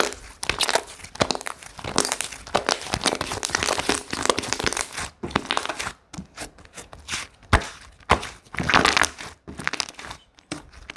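Slime being squished, folded and stretched by hand close to the microphone: a dense, irregular run of crackles, pops and clicks. It pauses briefly about six seconds in.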